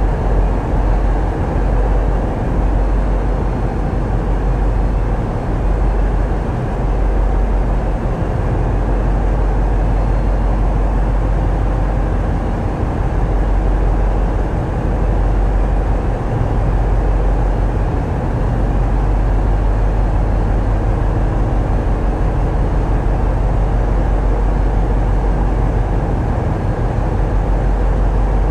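Tugboat diesel engines running steadily, heard on board as a loud, deep, continuous rumble that swells and eases slightly.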